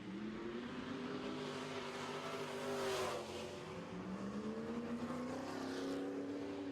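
Super truck race engines running laps, their pitch rising and falling as the trucks accelerate and lift, with the loudest pass-by about three seconds in.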